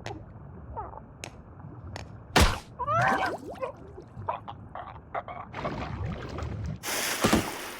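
Cartoon sound effects: a sharp hit about two and a half seconds in, followed by a warbling cry that wavers in pitch, then scattered clicks and taps, and a hissing rush near the end.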